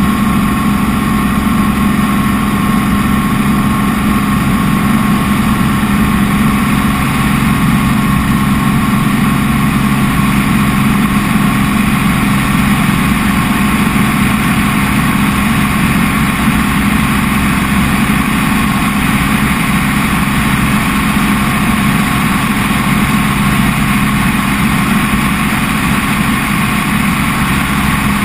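Helicopter in flight: engine and rotor noise as a loud, unchanging drone with a steady hum.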